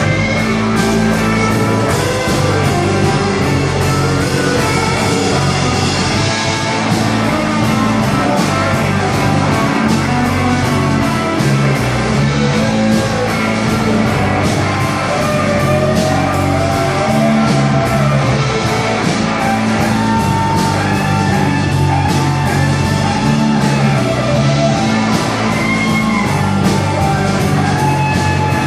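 A live band playing a blues-rock song, with guitar prominent and a steady low end.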